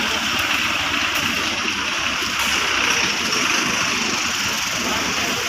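Steady rushing noise of Athirappilly waterfall's falling water, without a break.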